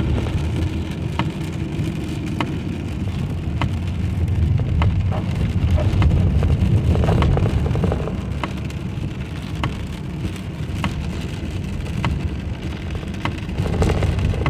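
Rain on a car and the car's low running rumble heard inside the cabin, with a sharp click repeating about every second and a quarter.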